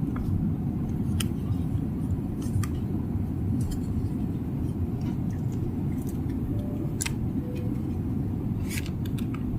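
Steady low rumble of an airliner cabin in flight, with a few light, sharp clicks scattered over it, the loudest about seven seconds in.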